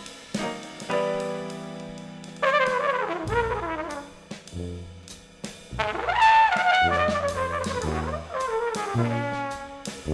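Jazz brass ensemble of trumpets, baritone saxophone and tuba with a drum kit playing. A held chord gives way, a couple of seconds in, to moving horn lines over short low tuba notes and scattered drum hits.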